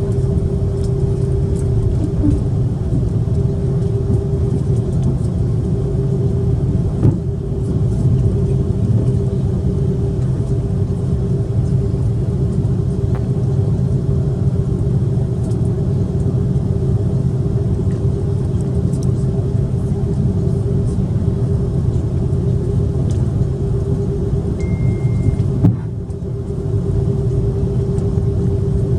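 Cabin noise inside a Swiss Airbus A330-300 taxiing after landing: a steady low rumble from the engines and the rolling airframe, with a constant hum. A brief high tone sounds near the end.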